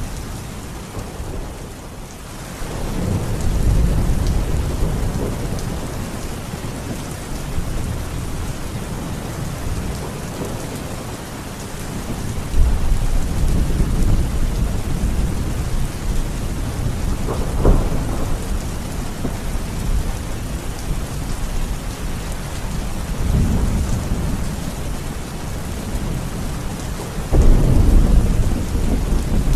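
Heavy rain hissing steadily, with rolling thunder rumbling up in deep waves several times and one sharp thunderclap about halfway through.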